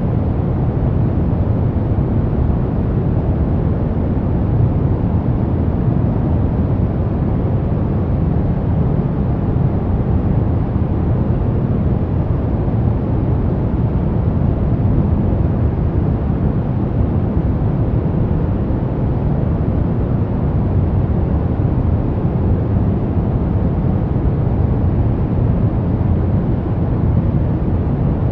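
Steady pink noise: an even, unchanging hiss, fullest in the low end.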